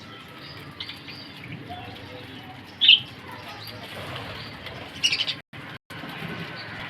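Pet budgerigars chirping. There is one short, loud chirp about three seconds in and a quick run of chirps about five seconds in, over a low, steady background.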